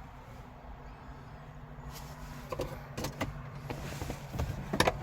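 A steady low hum with scattered clicks and knocks starting about halfway through and loudest near the end.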